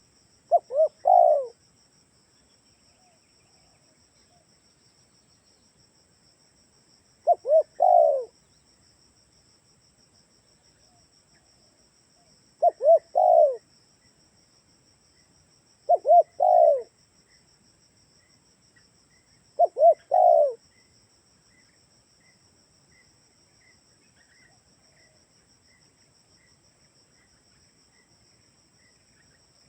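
Spotted dove (tekukur) cooing, five call phrases a few seconds apart, each two short notes and then a longer one. This is a lure call for drawing wild doves.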